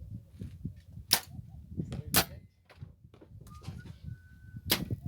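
Three sharp cracks of compound bows being shot, about a second in, a second later and near the end, over a steady low rumble of heavy wind buffeting the microphone.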